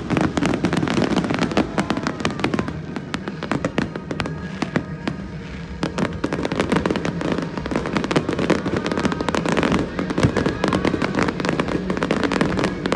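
Fireworks bursting and crackling in quick, dense volleys of pops and bangs, easing off briefly a few seconds in before building again, with music playing underneath.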